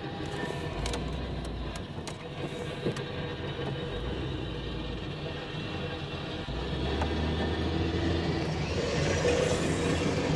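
Car driving on a road: steady engine and tyre noise with a few light clicks early on, growing louder from about halfway through.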